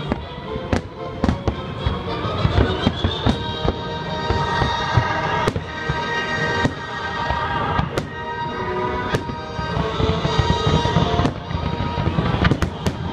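Fireworks bursting again and again, a sharp bang every second or so, with a quick cluster of bangs near the end. Music plays underneath throughout.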